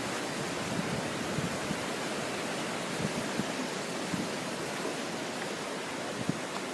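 Strong wind blowing in a steady rush, with irregular low buffeting on the microphone.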